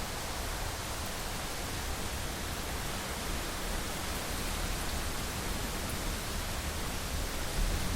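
Heavy rain falling steadily on a window, an even hiss, with a low rumble underneath that swells briefly near the end.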